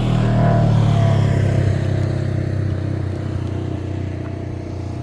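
A motor vehicle's engine passing close by, loudest about a second in and then slowly fading as it moves away.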